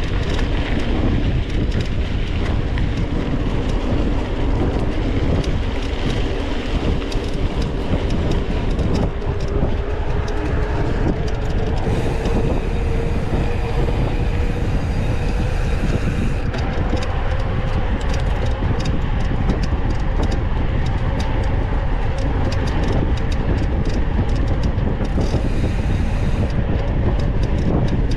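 Mountain bike ridden over a rough dirt trail, recorded from a camera mounted on the bike: wind buffets the microphone while the bike rattles and clicks without a break over the bumps.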